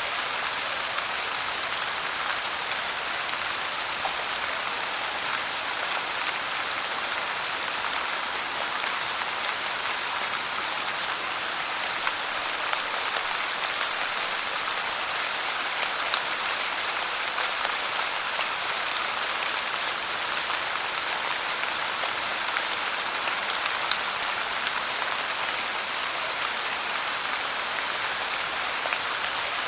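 Steady rain falling, a constant even hiss with many small drop patters and no change in strength.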